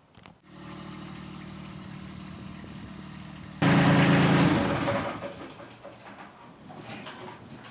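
Kubota B2601 compact tractor's diesel engine running steadily. About three and a half seconds in it turns suddenly much louder and rougher for about a second, then fades back down.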